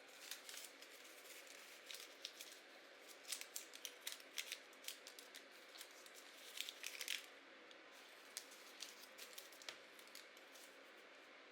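Scissors snipping through paper in quick crisp cuts, coming in clusters and thinning out in the last few seconds.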